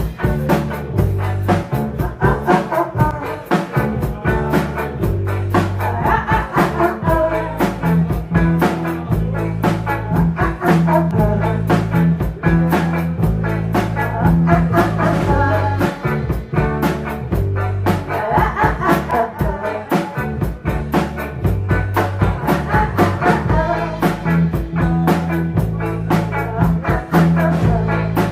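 Live rock band playing: a drum kit keeps a busy, steady beat under held bass notes and electric guitar.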